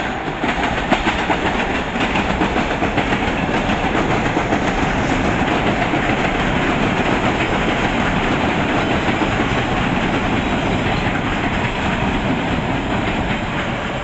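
A passenger train running past the station platform at close range, its wheels clattering over the rail joints in a loud, steady rumble.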